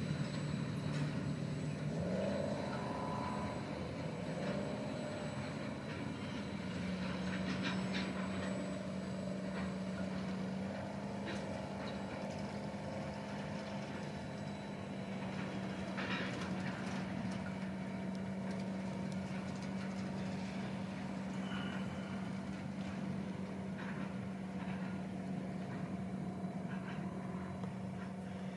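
Freight train of container wagons rolling past, with scattered clicks, until the tail goes by about halfway. Under it, a steady diesel locomotive hum that steps up in pitch about two seconds in and again about seven seconds in.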